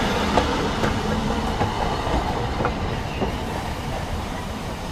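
Narrow-gauge train of carriages behind a Double Fairlie steam locomotive rolling past close by. The wheels click over the rail joints at irregular intervals above a steady rumble, which eases slightly toward the end.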